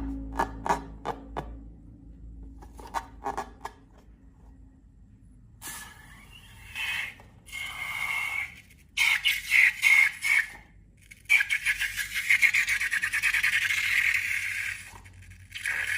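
Light taps and clicks in quick succession, then scraping sounds in bursts from about six seconds in, made by handling slime-making materials.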